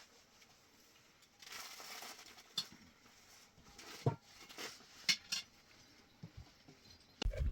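Scattered light clicks and clinks, like handled kitchenware, with a short rustle about a second and a half in. A loud low rumbling noise sets in just before the end.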